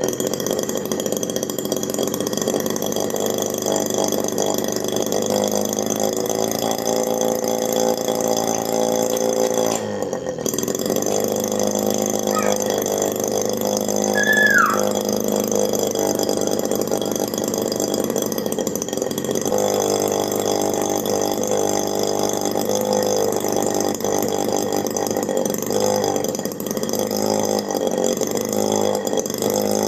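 Miniature two-stroke engine built from a refrigerator compressor, running continuously, its speed shifting up and down several times.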